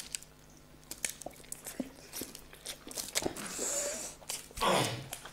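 Two people chewing and biting mouthfuls of boiled eggs in masala gravy, with wet mouth sounds and small clicks, and a louder muffled burst near the end.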